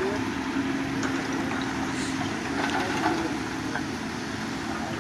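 Engine of heavy road-building machinery running steadily, a continuous hum with a held tone that eases a little about halfway through.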